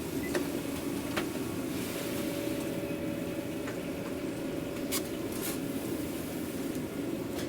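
Steady mechanical hum of a food truck's running equipment, with a few light clicks and knocks.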